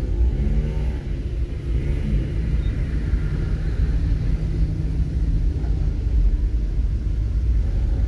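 Steady low rumble of a road vehicle on the move. An engine hum shifts up and down in pitch during the first couple of seconds, then holds steadier.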